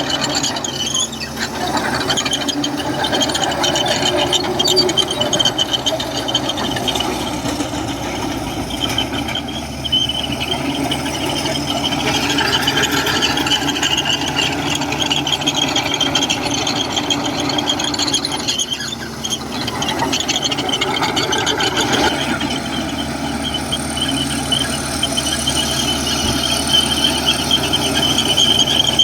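Komatsu bulldozer at work: diesel engine running under a steady high squeal, the squealing of the steel track undercarriage, with brief dips in level every several seconds.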